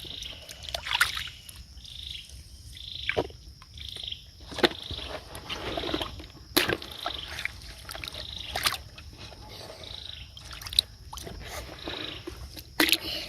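Frogs calling in short repeated chirps, roughly one or two a second, with several sharp splashes and sloshing of water mixed in.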